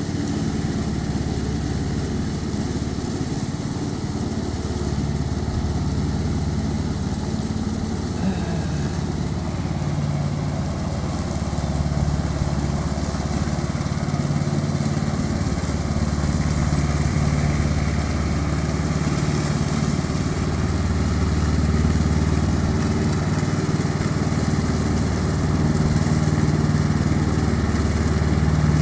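Tractor engine running steadily, its loudness swelling and easing slightly a few times.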